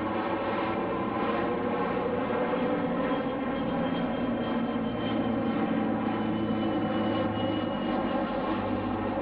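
Fixed-wing aircraft engine noise, a steady drone with a faint high whine that slowly drops in pitch over several seconds.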